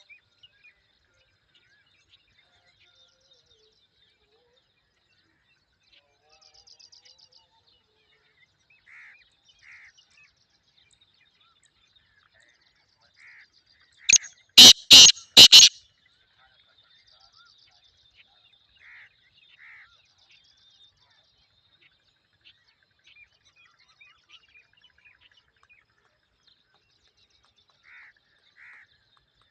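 A black francolin gives one loud, harsh call of about five quick notes, lasting roughly a second and a half, about halfway through. Faint chirps of small birds come and go throughout.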